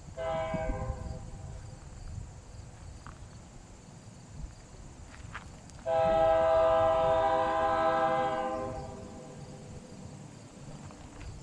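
Locomotive air horn sounding several tones at once: a short blast, then a longer blast of about three seconds.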